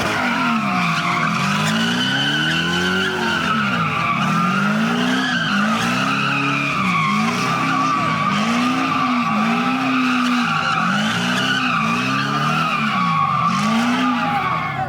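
A car's tyres squealing without a break as the wheels spin, while the engine revs rise and fall about once a second. It is loud and steady, and it stops suddenly at the end.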